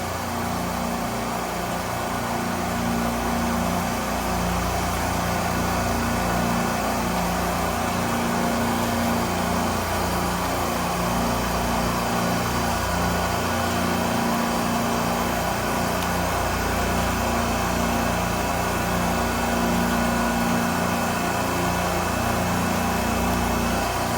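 Steady drone of running refrigeration machinery, a continuous mechanical hum with a low electrical-motor tone underneath.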